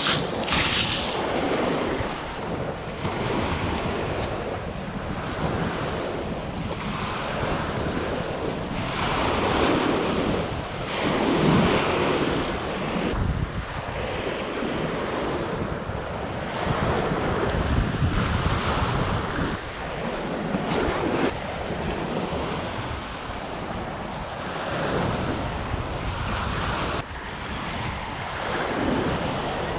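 Wind gusting across the microphone outdoors: a rushing noise with low rumble that swells and eases every few seconds.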